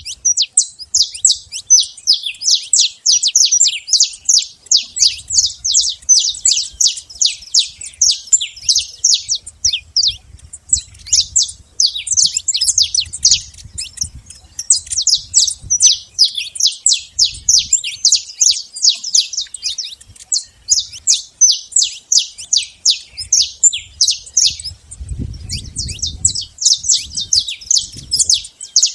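Saffron finch singing a long, fast run of short, high, chirping notes, about five a second, broken by a few brief pauses. A faint low rumble sits underneath.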